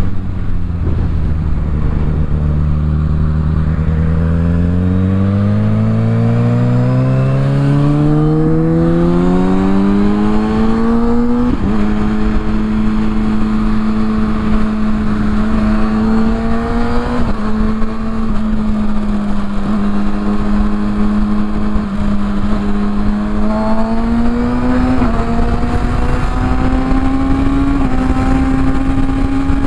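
Kawasaki ZX-6R inline-four with a Yoshimura exhaust, riding. It holds low revs at first, then climbs in one long pull through a gear. It shifts with a sudden step in pitch about eleven seconds in and cruises at near-steady revs, with small rises near the end. Wind noise rushes over the microphone throughout.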